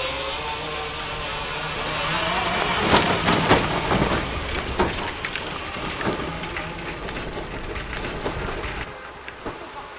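Narrow-gauge train passing close by: a steady low engine rumble under dense clattering of wheels and wagons, with sharp knocks about three seconds in, then dying away near the end.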